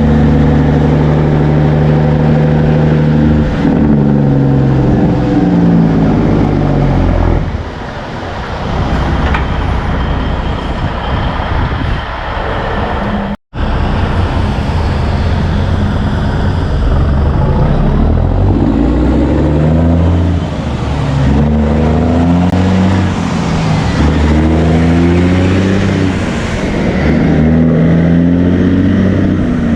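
Heavy trucks' diesel engines pulling away and shifting up through the gears, the engine note climbing and dropping with each shift. A sudden short break nearly halfway through separates two passes.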